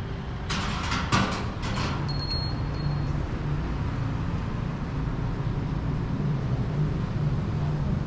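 Street traffic: a car engine running slowly close by, a steady low hum, with a short hissing rush about half a second to two seconds in.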